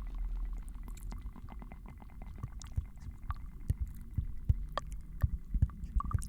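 Layered ASMR trigger sounds: a soft low rumble under many small irregular clicks and taps, which turn sharper and more frequent, with light thumps, from about halfway through.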